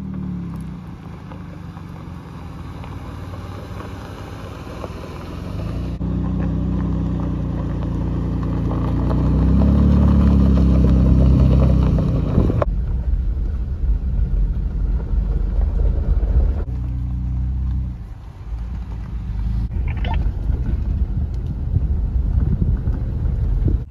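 Jeep Gladiator pickup driving, its engine running with the pitch rising around the middle as it speeds up, in several cut-together clips whose sound changes abruptly four times.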